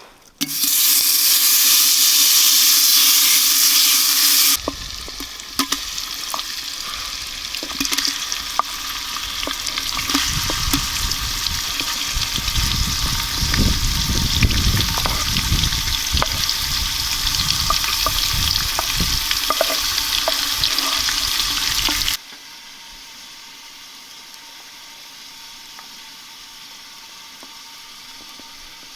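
Food frying hard in hot oil over a campfire, a loud steady sizzle with scraping and clicking from stirring. Near the end it cuts off abruptly to a much quieter steady hiss.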